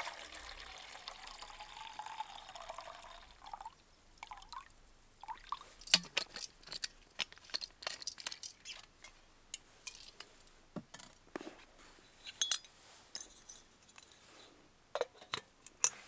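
Water poured into a vessel for about three seconds, followed by a run of small clinks and knocks as the vessel and utensils are handled.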